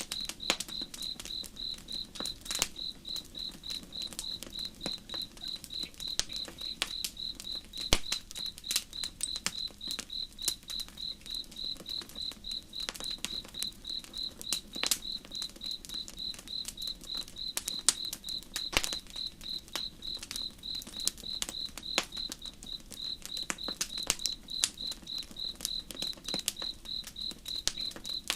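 Campfire crackling with irregular sharp pops and snaps, over a cricket chirping steadily on one high pitch about two to three times a second.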